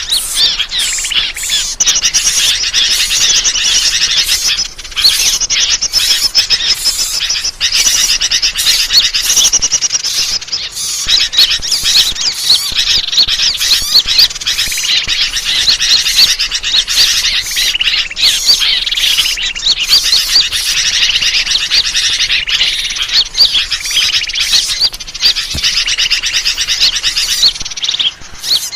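Dense, continuous chorus of small songbirds chirping and trilling rapidly over one another, high-pitched and without a break: a bird-lure (pikat) call recording used to draw wild birds in.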